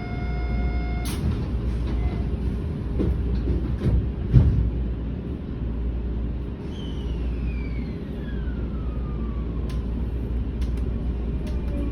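Sanyo Electric Railway train departing a station platform. A steady electronic tone sounds for about a second, ended by a sharp clunk as the doors shut. The train then pulls away with a low rumble and a few loud knocks about four seconds in, and a whine falls in pitch from about seven seconds in.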